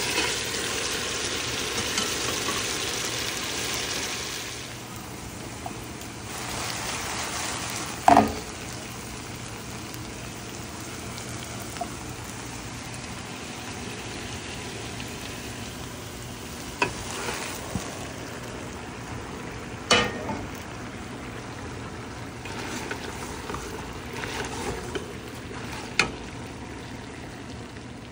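Chicken frying in oil in a nonstick wok: a steady sizzle, louder for the first few seconds and then lower. A few sharp knocks come through it, the loudest about eight seconds in.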